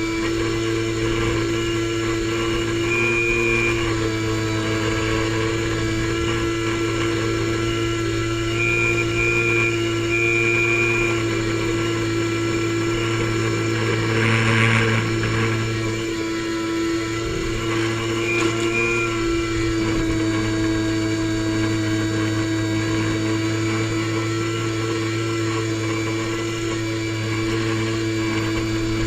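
Airboat's engine and air propeller running at a steady speed, a loud even drone that swells briefly about halfway through.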